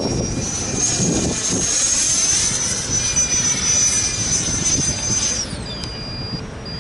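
105 mm electric ducted fan of an RC Rafale jet whining at a high steady pitch, rising slightly early on. About five and a half seconds in, the throttle is cut and the whine falls away.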